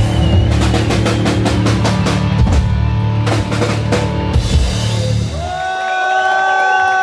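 Hard rock band playing live, with fast, heavy drum strikes over the full band. About five seconds in the band stops and a single held note rings on as the song closes.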